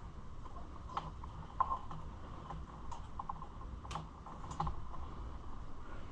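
Scattered light clicks and taps of hand tools and small metal parts being handled while working on a dirt bike, a few clicks spread a second or two apart.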